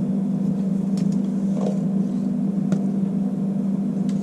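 Steady low machine hum, with a few faint clicks of handling about a second, two and a half seconds and four seconds in.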